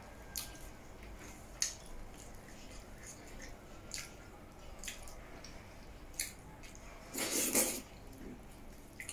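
Close-miked eating sounds of someone eating dhido and nettle soup by hand: soft wet mouth clicks and smacks every second or so while chewing, with one longer, louder wet squelch about seven seconds in.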